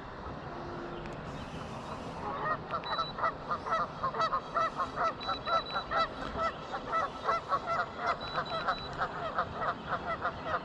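Geese honking: after about two seconds of quiet background, a long run of short honks starts, several a second, and keeps going.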